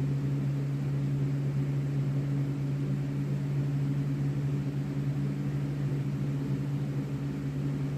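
Steady low mechanical hum that holds one unchanging pitch throughout, with no speech over it.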